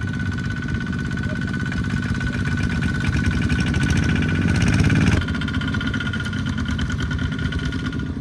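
Small farm tractor engine running with rapid, even firing pulses. It grows louder as it works harder from about three seconds in, then drops back abruptly about five seconds in. A steady high tone runs alongside.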